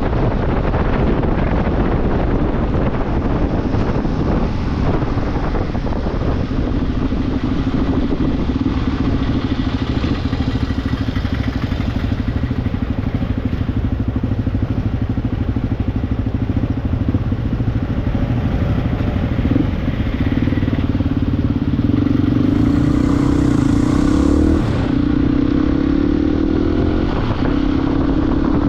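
Motorcycle engine running at a steady pace while riding, with wind rushing over the microphone. The engine note grows louder and a little higher about two-thirds of the way in.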